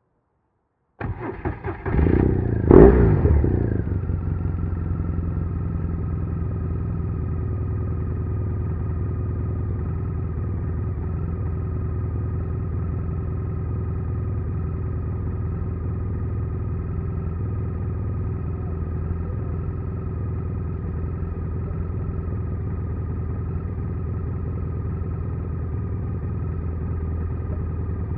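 BMW R1200R boxer-twin motorcycle engine being started: it cranks for about a second, catches with a quick rev that falls away, then settles into a steady idle.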